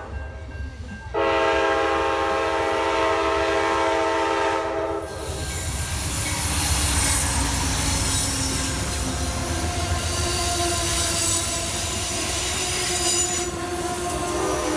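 Amtrak passenger locomotive's horn sounding one long blast of about four seconds. Then the train rolls through with a low rumble and high-pitched wheel squeal.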